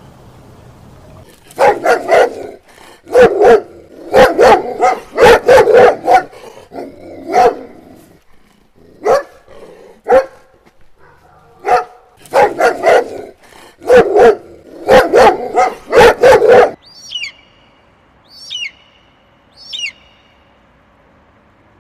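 A dog barking in quick runs of barks, with short pauses between the runs. Near the end, a bird gives four high calls that fall in pitch, about one a second.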